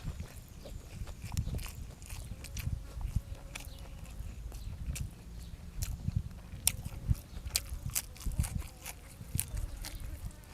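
A person eating: chewing with irregular wet smacks and many short, sharp clicks.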